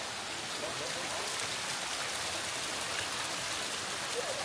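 Steady rushing of river water, an even hiss with no letup.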